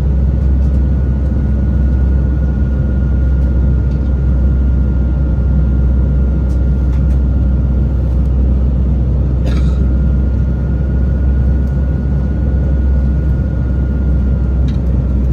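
Steady in-flight cabin noise of an Airbus A320-232 climbing out: a constant low rumble of its IAE V2500 engines and airflow, with a thin steady whine over it. A brief rustle about nine and a half seconds in, and a few faint ticks.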